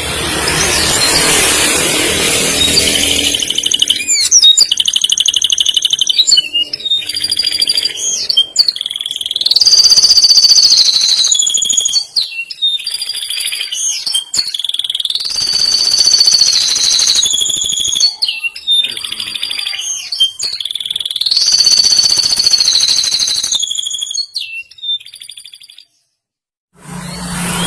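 Male domestic canary singing long rolled trills, each fast pulsed roll held on one high note for a second or two before stepping to a higher or lower pitch. A rushing hiss runs under the first few seconds, and the song cuts off abruptly near the end.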